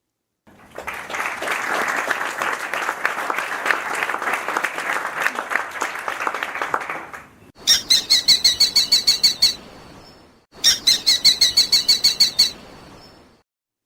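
Recorded bird sounds: a dense, fluttering noise for about seven seconds, then two bursts of rapid, high-pitched repeated calls, each lasting about two seconds.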